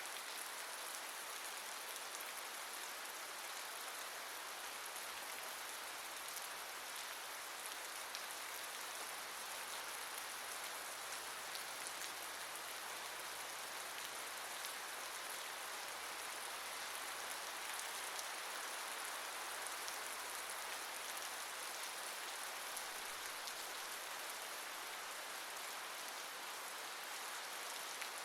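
Steady rain falling and pattering on a surface, a constant even hiss with faint drop ticks through it.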